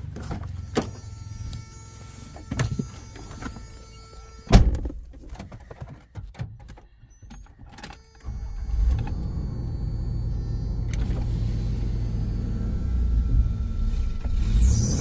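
Clicks and knocks of someone moving about a vehicle, with a loud bang like a car door shutting about four and a half seconds in. After a couple of quiet seconds a vehicle engine starts about eight seconds in and runs steadily.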